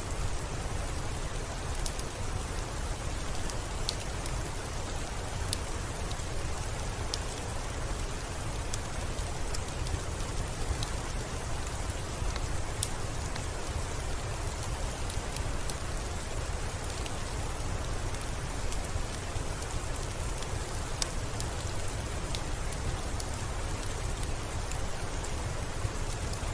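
Steady rain falling with a low, even rumble underneath, and a fireplace fire crackling: scattered sharp pops, a few every couple of seconds, over the hiss of the rain.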